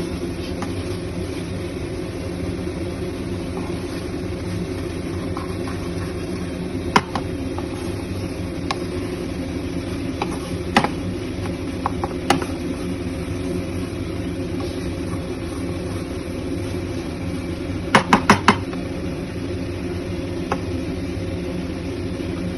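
Paneer bhurji frying in a kadai over a steady mechanical hum, with a metal spatula knocking against the pan now and then, including four quick knocks about eighteen seconds in.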